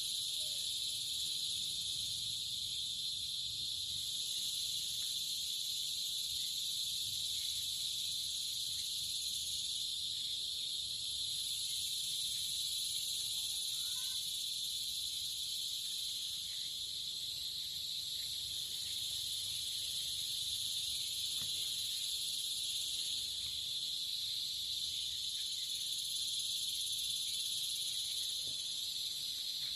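Insect chorus: a dense, unbroken high-pitched shrilling that stays steady throughout, over a faint low rumble.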